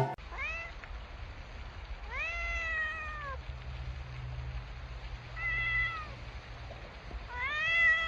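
A cat meowing four times, each meow rising and then falling in pitch, the second one long and drawn out, over a low steady hum.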